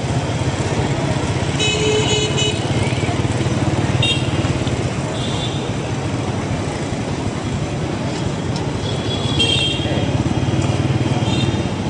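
Street traffic heard from a moving motorbike: a steady engine and road rumble, with several short motorbike horn toots, the first about two seconds in and a few more near the end.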